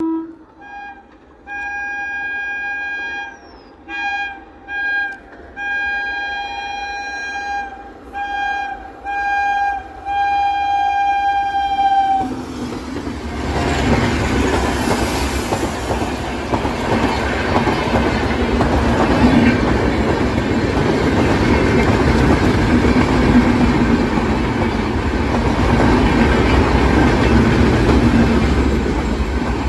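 Electric train horn sounding as the train approaches: one long blast, then a run of shorter blasts, the last one long. About twelve seconds in the train reaches the microphone and passes, a steady rumble of wheels with clickety-clack over the rail joints.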